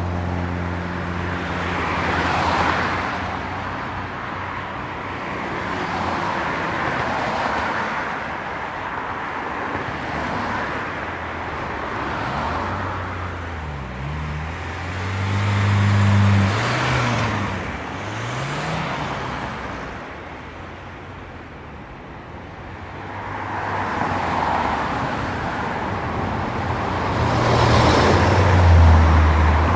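Road noise of a Honda Crosstour being driven through snowy city streets: a low engine hum and tyre noise that swells and fades as traffic goes by. The engine's pitch rises and falls a few times midway.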